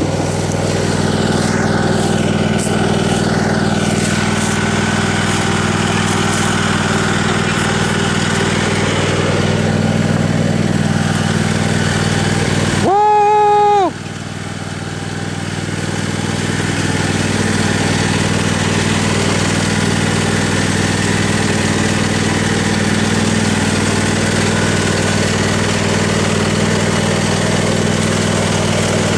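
Tractor engine running steadily while the tractor drives along. About halfway through, the engine sound breaks off for about a second while a single high, clear tone sounds, then the engine comes back quieter and builds back up.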